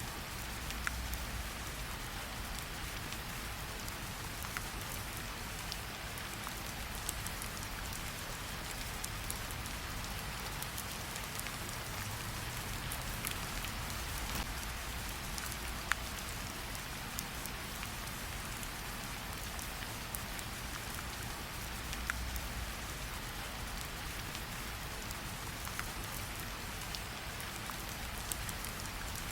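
Steady rain falling, with scattered sharp pops and crackles from a campfire burning alongside; one pop about halfway through stands out.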